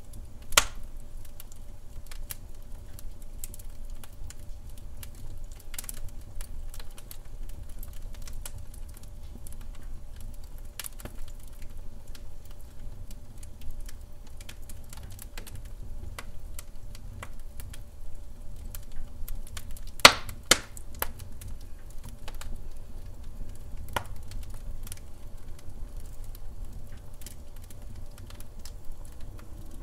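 Wood fire in a hearth crackling, with irregular small snaps and a few louder pops, the sharpest about half a second in and around twenty seconds in, over a low steady rumble.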